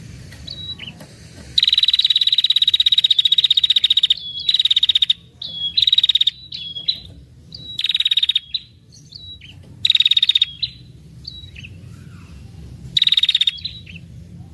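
Female red-headed prenjak (ashy tailorbird) calling: a long, rapid, high trill of about two and a half seconds, then four shorter trill bursts separated by single sharp chirps. This trilling is the female 'ngetir' call, used as a lure for males.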